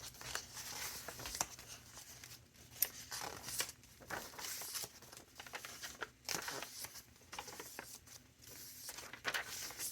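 Paper pages of a chunky handmade junk journal being turned and handled: irregular rustling and crinkling of paper and card, with a few soft sharp ticks.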